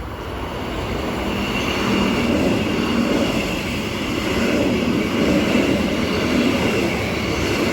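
Six-car electric passenger train running through the station without stopping. Its wheels on the rails build over the first two seconds into a steady rumble, with a steady high whine above it.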